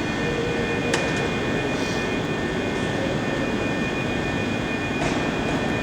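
ScotRail Class 380 electric multiple unit pulling slowly into a platform: a steady rumble of the train with a thin steady whine over it, and a single click about a second in.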